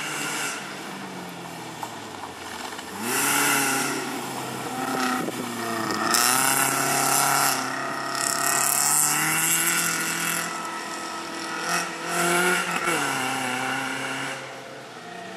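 BMW E36 rally car's engine revving hard and dropping back again and again as it accelerates and brakes between tight turns, with bursts of hissing tyre noise at the loudest moments. It fades as the car pulls away near the end.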